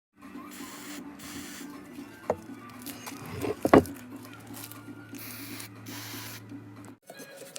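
A steady low hum with stretches of hiss and rubbing, broken by two sharp knocks about two and three and a half seconds in, the second the loudest; it cuts off suddenly near the end.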